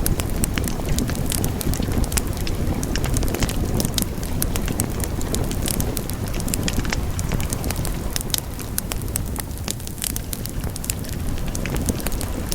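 Wood fire burning in a fireplace: a steady low rumble of flames with constant sharp crackles and pops, thinning out for a few seconds past the middle.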